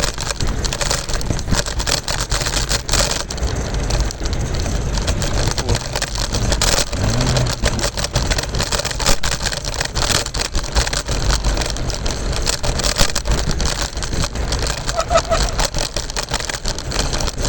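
Kick scooter rolling fast over rough pavement: a steady rumble from the small wheels with many quick clicks and rattles from the deck and joints.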